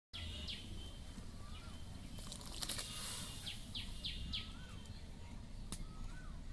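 Birds chirping: several quick high chirps and a few short notes that rise and fall, scattered over a low steady rumble, with a couple of faint clicks.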